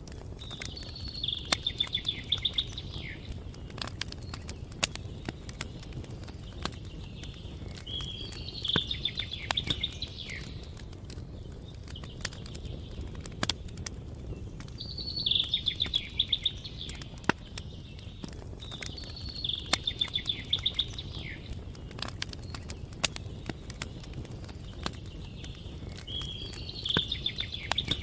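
Campfire crackling with scattered sharp pops over a steady low rumble, while a songbird repeats a short trilled song phrase every few seconds, five times.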